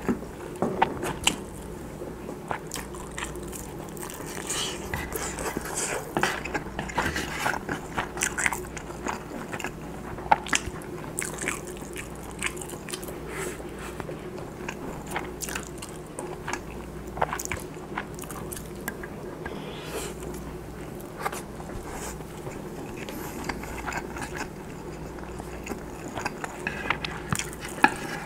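Close-miked chewing and biting of Spam and rice, with wet mouth sounds and many irregular sharp clicks.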